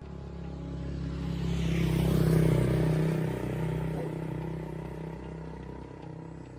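A motor vehicle's engine passing by: a steady low drone that grows louder to a peak about two and a half seconds in, then fades away.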